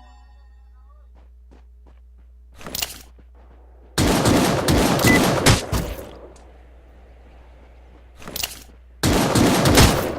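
Bursts of rapid automatic gunfire: a short burst about three seconds in, a long volley from about four to six seconds in, another short burst past eight seconds, and a second long volley near the end.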